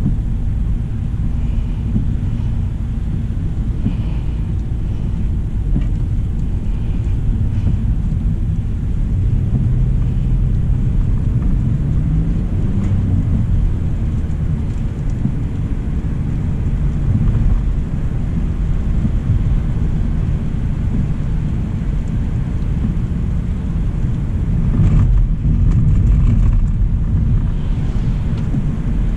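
2025 Hyundai Elantra SEL driving: a steady low rumble of road and engine noise, with a tone rising in pitch around twelve seconds in and a louder stretch near the end.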